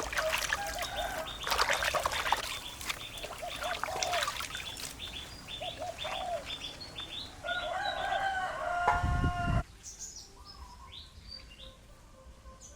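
Chickens clucking, with many quick high chirps. The sound drops off abruptly near the end, leaving only faint bird chirps.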